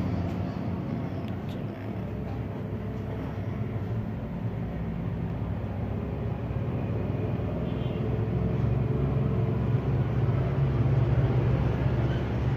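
Steady low mechanical rumble that swells louder about eight seconds in.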